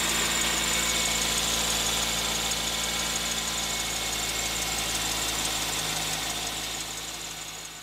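A 2004 Toyota Matrix's four-cylinder engine idling steadily, just started on its newly fitted starter motor. The sound fades out near the end.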